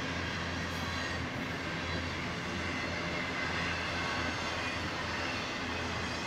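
Double-stack intermodal freight train's container-laden well cars rolling past, steel wheels running steadily on the rails.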